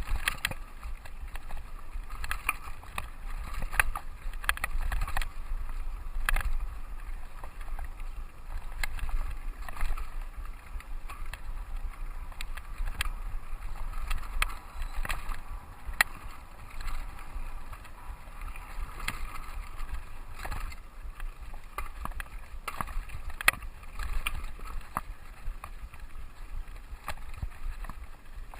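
Mountain bike rolling over a dirt trail: a steady low rumble of wind and tyre noise on the camera microphone, broken by frequent sharp clicks and rattles from the bike over the rough ground.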